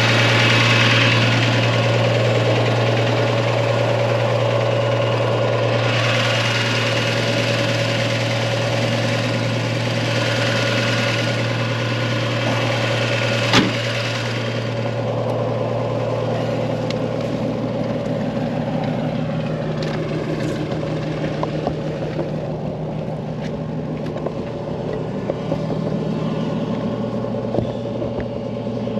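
Old spark-ignition gasoline tractor engine idling steadily on part choke while it warms up after a hard cold start. A single sharp click about halfway through.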